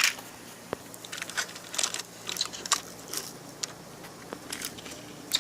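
A train coming off a bent track: irregular light clicks and crackles as its wheels leave the rails, over a faint steady hum.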